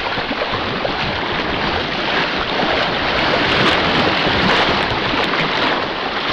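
Steady rushing of water, cutting in abruptly at the start.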